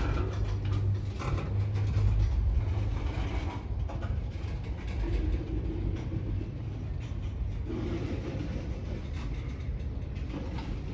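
Train running past with a steady rumble, a low engine drone strongest in the first few seconds.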